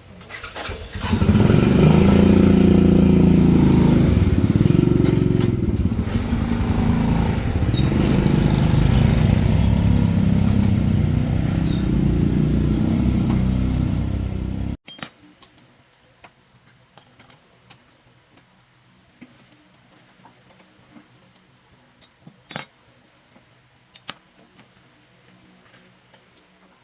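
A motor vehicle engine running loudly for about thirteen seconds, its pitch wavering, then cutting off suddenly. Only faint scattered clicks and taps follow.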